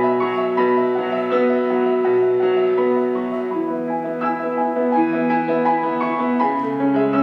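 Solo piano playing a flowing piece, a steady stream of notes over held bass notes that shift to a new chord a little past the middle and again near the end.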